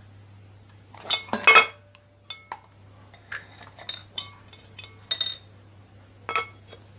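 Metal parts of a disassembled ceiling fan clinking and clattering as they are handled: a burst of clattering about a second in, then scattered single clinks with brief ringing, a louder one about five seconds in.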